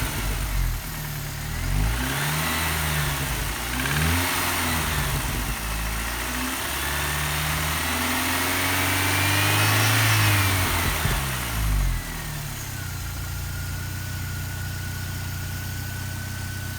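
BMW M43TU inline-four engine revved in a few short blips, then held up in a longer rev that falls back to a steady idle about twelve seconds in. The engine is being checked for a knock that its owner hears only under load at higher revs.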